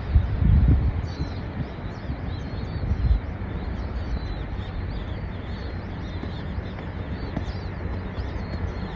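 A flock of brown-eared bulbuls keeps up a stream of short, high chirping calls. Wind buffets the microphone underneath, with low rumbling gusts about half a second in and again around three seconds.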